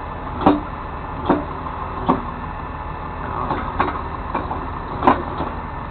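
Truck engine idling steadily, with five sharp metal clanks spread through, typical of tow rigging gear being handled and set.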